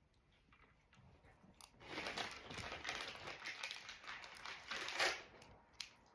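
Plastic crinkling and rustling for about three seconds as Lego pieces are handled, with a few small sharp clicks before and after.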